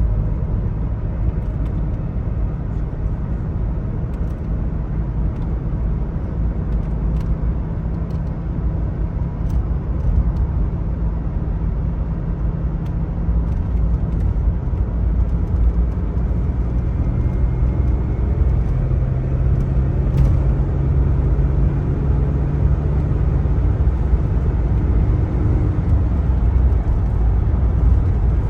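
1999 Chevrolet Blazer's 4.3-litre V6 running with a steady low rumble; its engine note changes pitch a little past halfway through.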